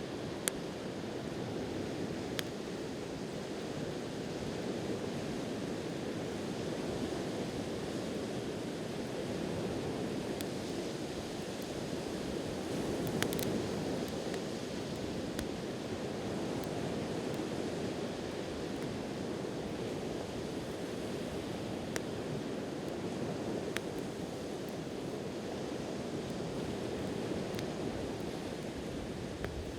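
Ocean waves washing on the shore in a steady surf, with a wood campfire giving off a few sharp, scattered pops and crackles.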